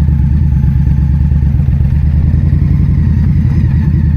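2022 Indian Scout Bobber's V-twin engine running steadily in first gear as the clutch is let out and the bike pulls away from a stop at low speed.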